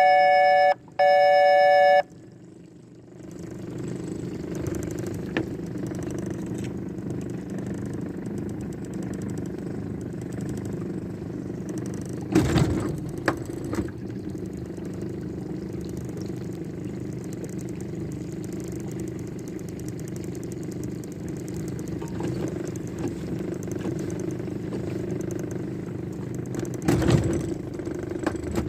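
Two loud, steady electronic tones of about a second each at the start, then a steady low engine drone. The drone has two brief louder noises, one about halfway through and one near the end.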